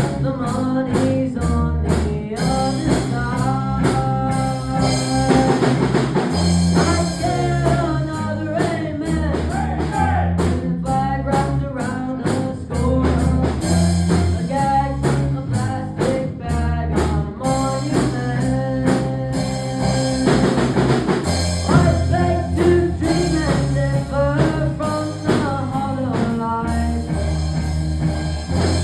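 A rock band playing a song: a drum kit keeping a steady beat under bass, guitar and a singing voice.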